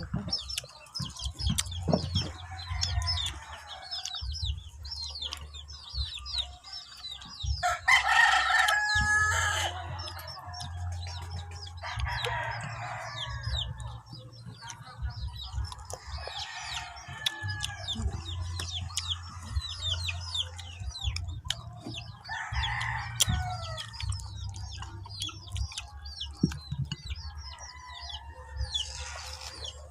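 Chickens clucking, with a rooster crowing several times, over a steady low hum.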